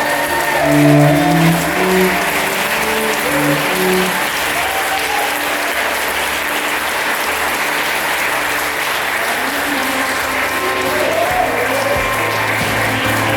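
Crowd of guests clapping steadily, with music playing underneath; musical notes stand out in the first few seconds.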